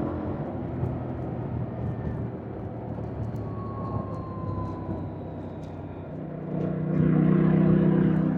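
2025 Yamaha MT-07's parallel-twin engine heard from the bike while riding, running at light throttle, then opening up about six seconds in and getting louder as it pulls harder.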